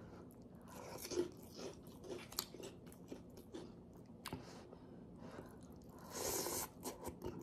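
Close-up crunching and chewing of pork chicharon (fried pork rind), scattered crackles and clicks. About six seconds in comes a louder, noisy slurp of ramen noodles.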